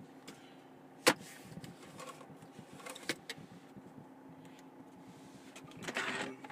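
Mercedes C220 CDI four-cylinder turbodiesel idling, heard from inside the cabin as a steady low hum. Over it come cabin controls being clicked: a sharp loud click about a second in, a lighter one about three seconds in, and a brief rustle of movement near the end.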